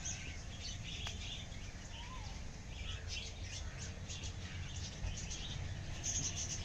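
Small birds chirping: many short, high notes repeated at irregular intervals, with one short falling call about two seconds in, over a steady low rumble of background noise.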